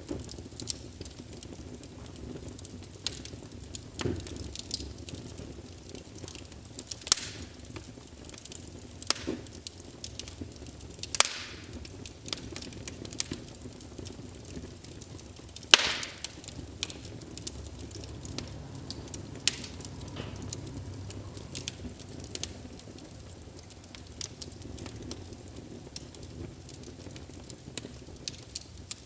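Wood fire burning in a fireplace, crackling with irregular sharp pops over a low steady rush of flame; the loudest pops come about 7, 11 and 16 seconds in.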